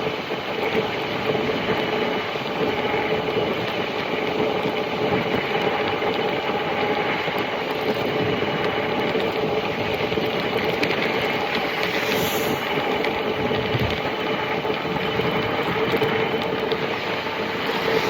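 Electric bike riding at speed: a steady motor whine over a constant rush of wind and tyre noise.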